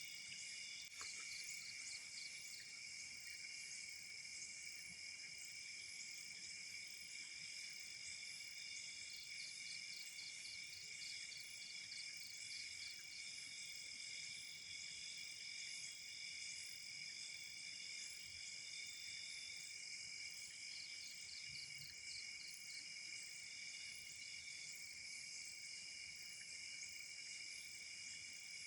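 A chorus of night insects: several steady high-pitched trills at different pitches, with a faster pulsing chirp joining in now and then.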